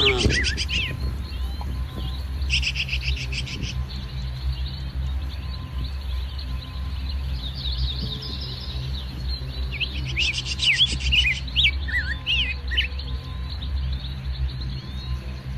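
Small birds chirping and calling repeatedly in short high notes and quick rattling trills, over a steady low rumble.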